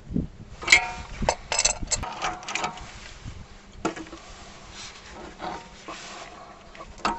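A bushing press tool being worked by hand to press a new rubber rear-axle bushing into a VW torsion beam: irregular metallic clicks and scrapes, several close together in the first few seconds, then fewer and quieter.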